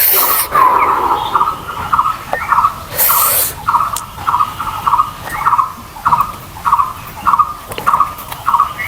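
Close-miked mouth sounds of someone eating pork with rice: rhythmic wet chewing smacks, about two a second. There is a louder, short hissing burst about three seconds in.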